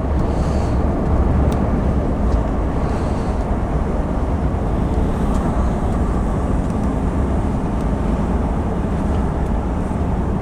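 Steady engine drone and road rumble heard inside the cab of a moving articulated lorry (Class 1 HGV), heaviest in the low bass.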